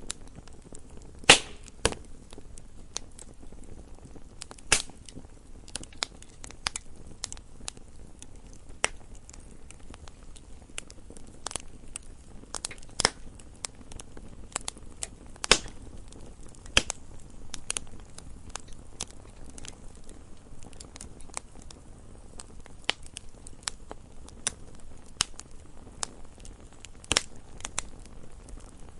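Wood fire crackling: irregular sharp pops and snaps over a soft low hiss, the loudest pop about a second in.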